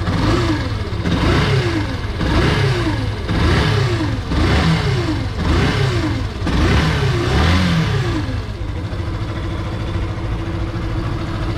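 Yamaha FZ 150 single-cylinder engine blipped up and down about eight times, roughly once a second, then settling to a steady idle. It carries a noise heard strongest on one side of the engine, which the mechanic diagnoses as coming from inside the stator (alternator) cover.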